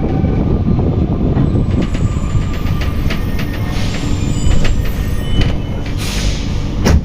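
Alstom NS-93 rubber-tyred metro car heard from inside while it stands at a station, with a steady low rumble and scattered clicks and knocks. About six seconds in comes a brief hiss of air, ending in a sharp knock.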